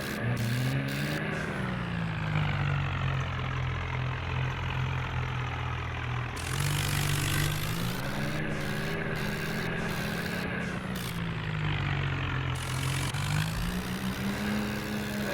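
Swaraj 963 FE tractor's diesel engine running, its speed rising and falling several times as the throttle changes.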